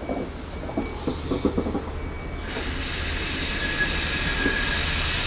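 InterCity 125 train moving through the station, its power car engine running with a steady low hum. From about two seconds in, a high-pitched wheel squeal joins it and grows louder.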